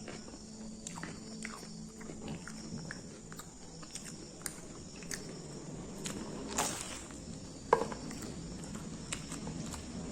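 Eating sounds: scattered crunchy bites and chewing, with a sharp crack about three-quarters of the way through.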